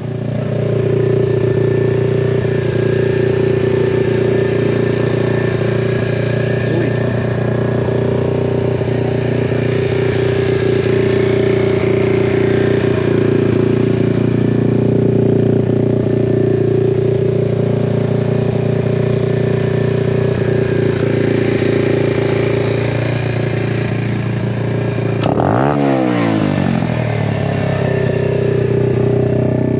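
Apollo RZF pit bike's small single-cylinder engine idling steadily, with a quick falling sweep in pitch near the end.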